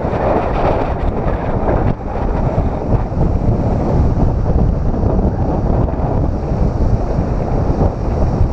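Wind buffeting the microphone, loud and steady, over ocean surf breaking against a rocky shore.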